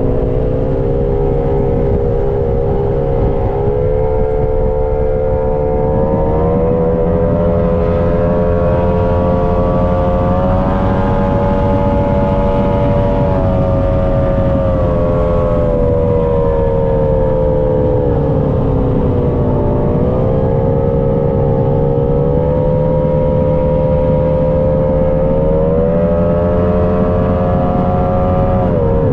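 High-performance powerboat engine running hard at speed. Its pitch climbs and eases off slowly several times with the throttle, over a steady low rumble and rushing noise.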